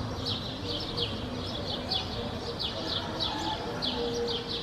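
Small birds chirping continuously, a steady run of short falling chirps at about three a second, over a low steady background noise.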